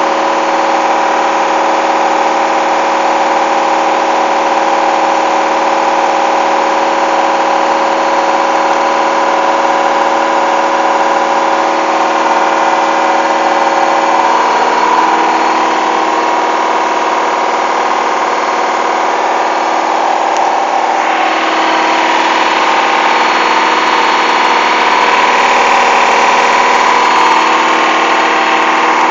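Hoover washing machine's motor running continuously with a steady whine made of several tones. The pitch pattern shifts about halfway through, and the sound grows brighter and a little louder about two-thirds of the way in.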